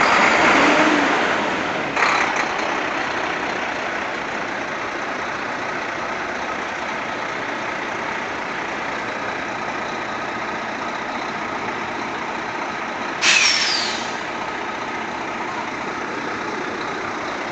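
Renault Premium 440 truck running steadily. There is a short burst of noise about two seconds in and a louder brief hiss with a falling whistle about thirteen seconds in.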